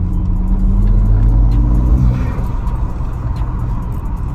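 BMW N54 twin-turbo inline-six pulling hard in third gear, heard from inside the cabin, its pitch rising slightly. About two seconds in the throttle lifts and the engine note drops, with a brief hiss as the blow-off valve vents boost.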